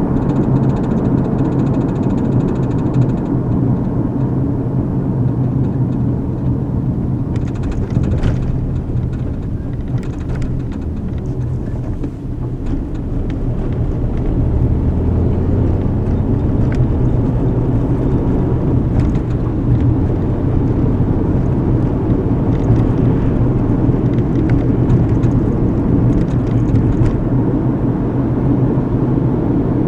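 Inside a moving car: steady engine and tyre rumble from the road, dipping briefly about twelve seconds in, with a few faint clicks and rattles.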